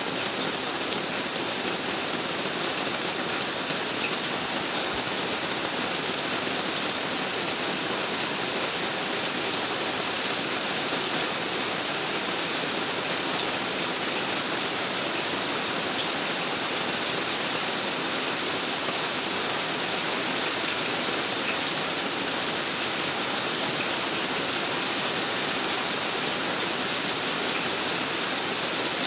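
Steady rain falling on a road and the surfaces around it, an even hiss with scattered drop ticks.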